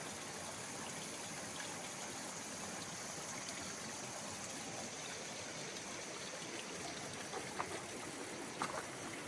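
Steady rush of a forest stream or river running over rocks, with a couple of faint clicks near the end.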